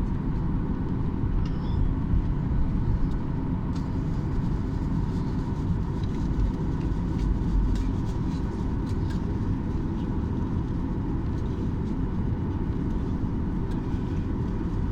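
Steady low rumble of an airliner cabin while taxiing to the stand after landing, with a faint steady whine over it.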